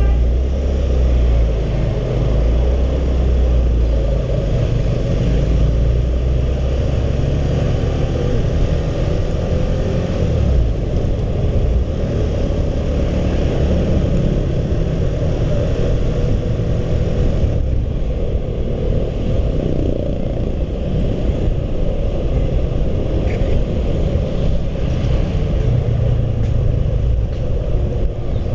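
A Honda CB150R motorcycle under way on the road: its single-cylinder engine running steadily beneath a heavy low rumble of road and wind noise, with the engine note rising and falling gently.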